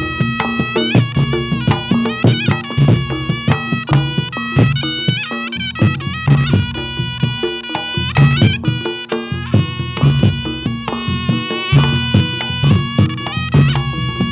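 Reog Ponorogo gamelan accompanying jathilan dancing: a slompret (a Javanese double-reed trumpet) plays a loud, ornamented, nasal melody over frequent drum beats and a steady low held tone.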